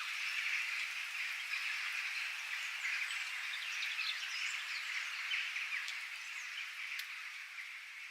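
Many birds chirping and calling in quick short notes over a steady, dense high-pitched chorus, like insects or frogs. The whole soundscape starts fading down near the end.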